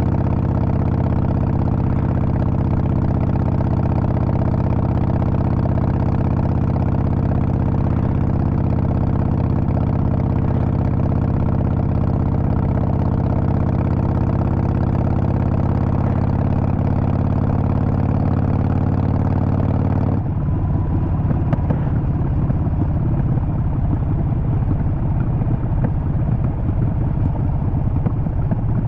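Harley-Davidson Sportster 48's air-cooled 1200 cc V-twin running steadily with an even, pitched note. About twenty seconds in the sound changes abruptly to a rougher, lumpier beat with less hiss on top.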